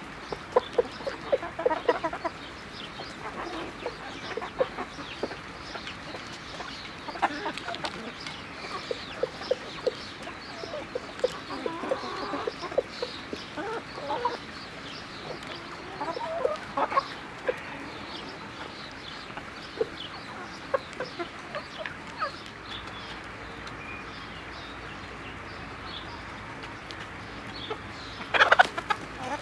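Flock of chickens clucking and calling as they feed, many short clucks overlapping, with a louder burst of calls near the end.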